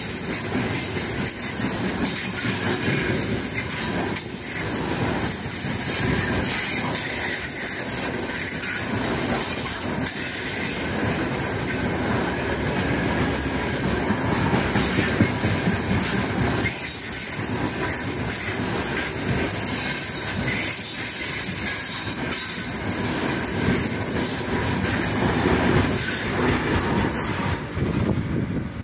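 Freight wagons of a long, heavy train rolling past close by: a steady, loud rumble and clatter of wheels on the rails. It drops away suddenly near the end as the last wagon goes by.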